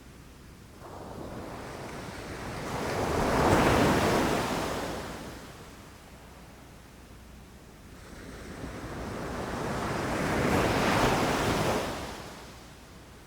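Ocean waves breaking, two in turn: each builds to a rushing crash, one about four seconds in and one about eleven seconds in, then washes back down.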